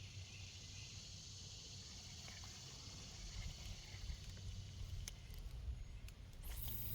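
Faint outdoor ambience: a steady high-pitched hiss with a low rumble of wind on the microphone. A few light clicks and a brief rustle come near the end.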